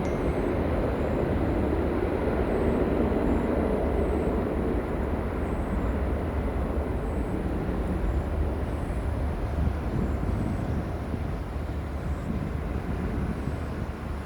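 Jet airliner engines rumbling as the aircraft passes, a steady roar that eases slightly toward the end.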